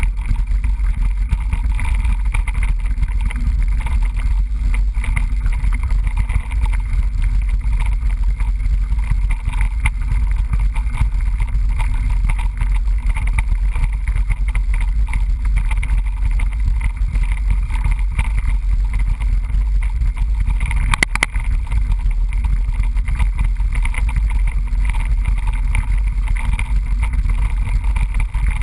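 Steady low wind buffeting and rumble on a GoPro camera's microphone while mountain biking, with small knocks and rattles from the bike on the trail and a sharper clatter about two-thirds of the way through.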